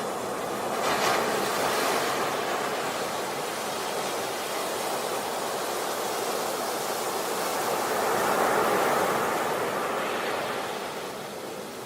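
Sea waves breaking and washing on a beach: a steady rushing surf that swells twice, about a second in and again later, then eases off near the end.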